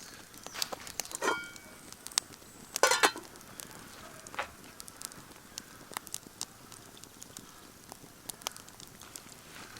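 Wood campfire crackling, with scattered sharp pops and two louder knocks, about a second in and around three seconds in.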